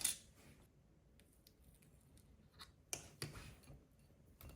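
A few faint, scattered clicks and light handling noises, as of small objects or packaging being handled, the clearest pair about three seconds in.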